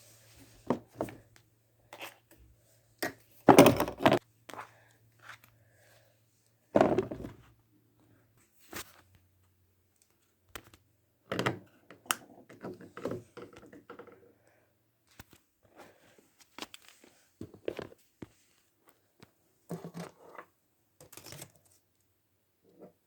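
Scattered knocks, thuds and crinkling of household objects being handled, the loudest clatters about four and seven seconds in. A low steady hum sits underneath and stops about eight seconds in.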